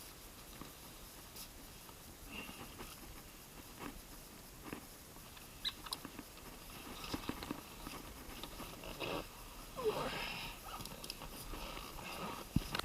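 Open-deck kayak paddled through a narrow creek: irregular light splashes, drips and rustles of the paddle and hull. The sounds get busier in the second half, with a short squeak about ten seconds in.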